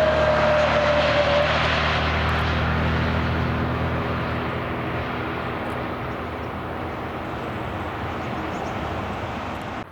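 Airliner's engines passing by and receding, loudest at first and fading steadily. A whine in the engine noise drops slightly in pitch over the first second and a half. The sound cuts off abruptly at the very end.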